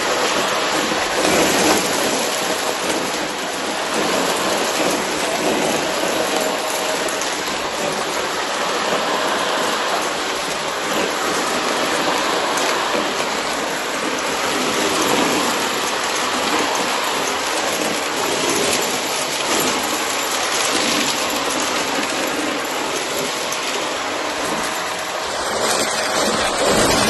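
Shark vacuum cleaner running and sucking up cardboard debris: a steady motor with a dense crackle of bits being pulled through the head.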